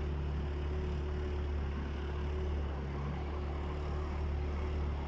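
Small boat's motor running steadily, a constant low hum with a faint steady whine above it.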